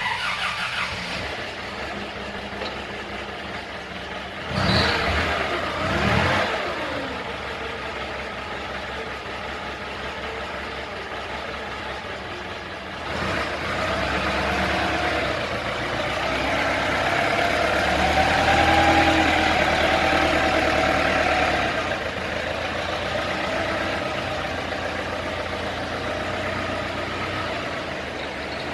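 Daewoo G25S forklift's propane engine running steadily, with two quick revs about five and six seconds in and a longer spell of higher running in the second half.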